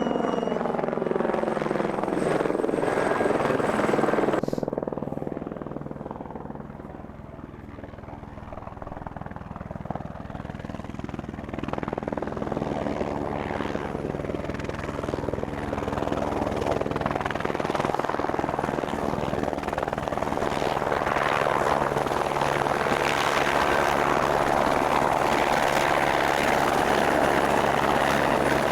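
Helicopter rotor and engine running with a steady low beat. The noise drops suddenly about four seconds in and builds back up over the following seconds, staying loud to the end.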